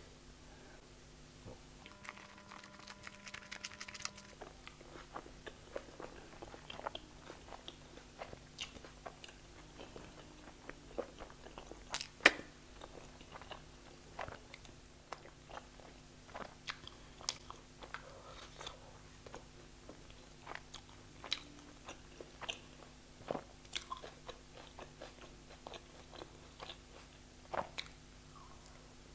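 Close-miked chewing of butter naan wrapped around butter chicken and raw onion: soft crunching and wet mouth clicks, irregular throughout, with one sharp louder click about twelve seconds in.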